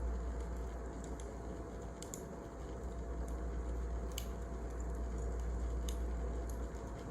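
Wood fire crackling: scattered sharp pops, roughly one a second, over a low steady rumble.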